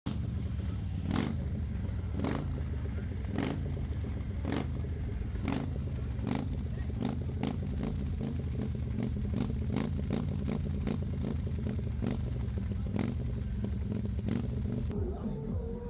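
Motorcycle engine running at a steady idle, with frequent sharp irregular cracks over it. It starts to rev near the end.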